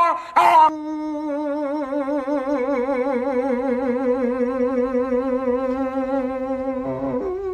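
Dog howling: one last short yelp, then a long, held howl of about six seconds whose pitch wavers and slowly sinks, breaking off near the end as a new call begins.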